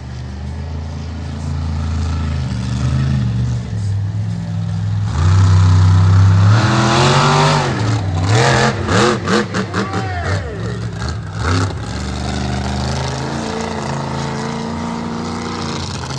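Monster truck engine running, then revved hard about five seconds in, its pitch swinging up and down. A string of quick on-off throttle bursts follows, before it settles back to a steady run near the end.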